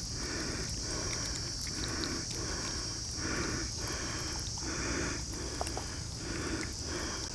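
Hands rubbing spice paste into a whole raw chicken: soft rhythmic rubbing strokes, about three every two seconds. A steady high chirring of crickets runs underneath.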